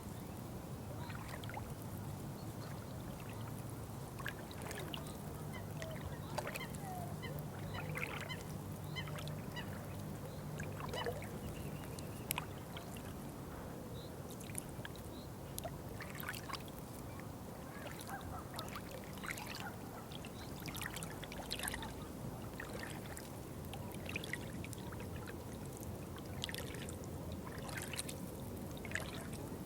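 Waterfowl, ducks or geese, calling in short, scattered honks and quacks over soft, steady water sounds.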